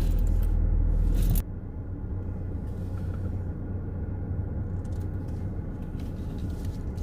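Car running, heard from inside the cabin. A loud, steady low hum drops abruptly about a second and a half in to a quieter, rougher low rumble that holds steady.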